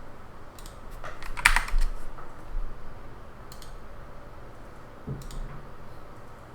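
Computer keyboard typing: a few scattered keystrokes, with a quick run of key clicks about a second and a half in, the loudest, over a steady background hiss.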